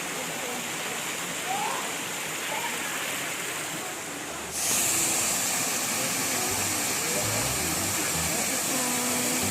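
Waterfall rushing, a steady hiss of falling water that jumps suddenly louder and brighter about halfway through.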